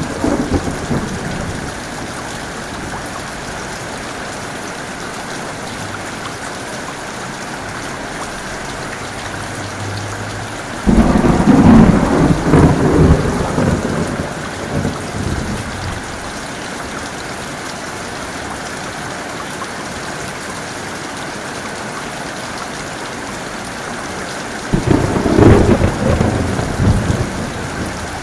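Heavy rain falling steadily, with a thunderstorm overhead: the end of a rumble dies away at the start, then two claps of thunder break in suddenly, about eleven seconds in and near the end, each rumbling off over three or four seconds.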